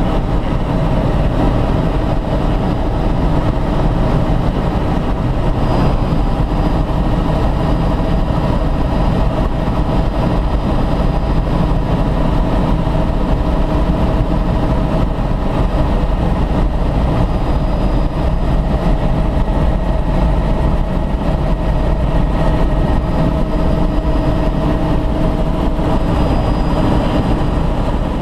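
Helicopter engine and rotor noise heard inside the cabin: a loud, steady din with a faint steady whine over it.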